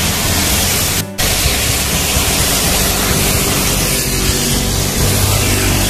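Loud steady hiss of rain and wet-road spray mixed with wind on the microphone while cycling in a downpour; the sound briefly cuts out about a second in.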